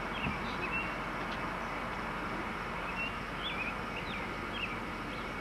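Steady outdoor background hiss, with faint short high chirps scattered through it.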